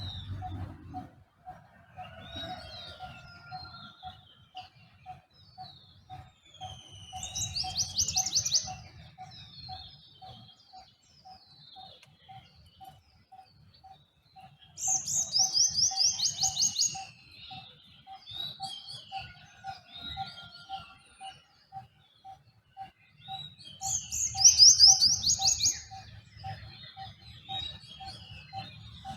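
Dawn chorus of several birds: one bird repeats a short single note about twice a second throughout, while a loud, rapid chattering phrase comes three times, about every eight seconds, over scattered high chirps and whistles.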